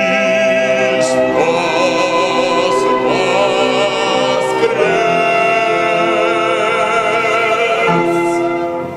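A choir singing the long, held closing chords of a Russian Easter hymn with vibrato, moving through a few chord changes. It fades out near the end.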